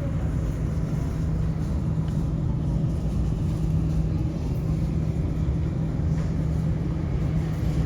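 Steady low vehicle rumble with a constant deep hum, even throughout.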